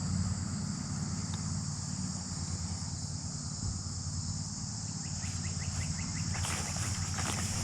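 Steady, high insect chorus like crickets' trilling, over a low steady rumble. Near the end come a run of fine ticks and a few soft rustles.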